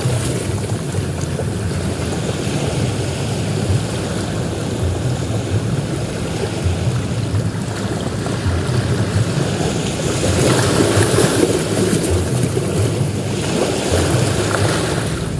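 Ocean surf washing continuously onto a beach, with one wave breaking louder about ten seconds in.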